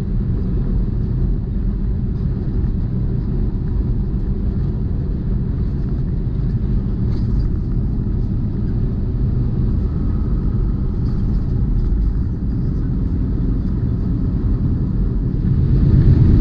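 Steady low rumble of a semi-truck's engine and road noise, heard from inside the cab while driving, growing a little louder near the end.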